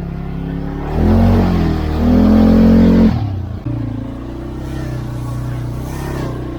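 CFMoto CForce 520L ATV's single-cylinder engine running under way, getting louder and rising in pitch as it accelerates about a second in, then easing off after about three seconds and settling back to a steady run.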